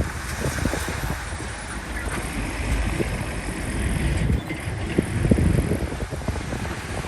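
Heavy vehicle engine running steadily, with wind buffeting the microphone in irregular low thumps.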